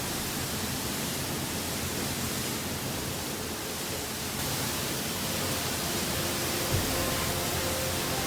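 Storm wind and surf on a beach, a steady even rushing noise. There is one low thump about six and a half seconds in, and faint music tones come in near the end.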